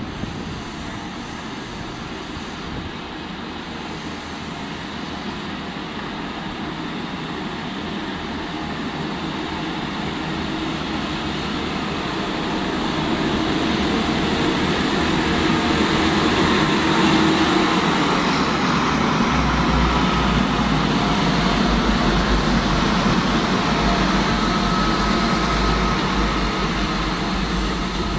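A train moving through the station, its noise building steadily over about fifteen seconds and then holding, with faint steady whining tones and a low rumble that joins about two-thirds of the way through.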